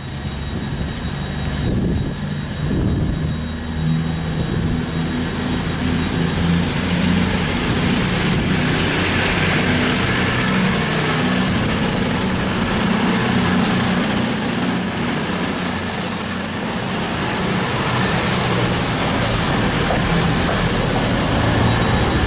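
Diesel train engine running under power, with a steady low engine note and a high whine that climbs over several seconds, holds, then falls away near the end.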